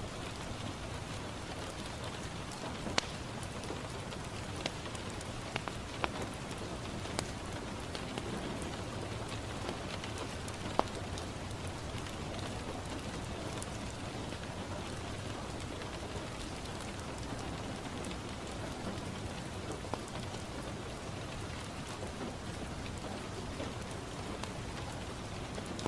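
Steady rain falling on a window, with a few sharp, scattered crackles from a wood fire, the loudest about eleven seconds in.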